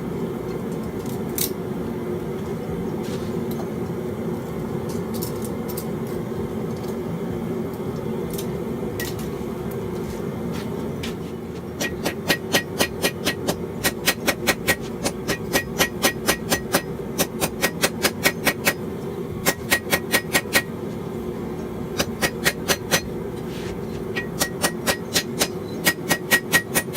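Hand hammer striking hot steel on an anvil: a fast run of sharp, ringing blows at about three a second, in groups with short pauses, starting about halfway through after a few scattered clicks. Under it runs the forge's steady low roar.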